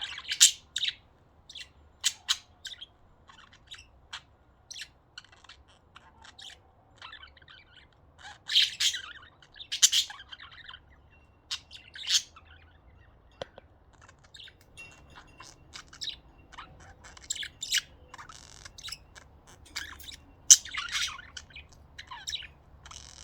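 Several pet budgerigars chirping and calling to each other in short, high, separate chirps, with louder clusters about half a second in, around nine to ten seconds and around twenty seconds in. The calling is the budgies' reaction to hearing crows.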